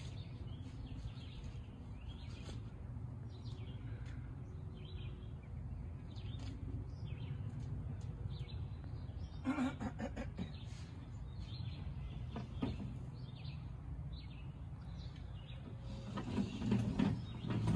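Outdoor ambience: small birds chirping now and then over a steady low background rumble, with one brief louder noise about halfway through.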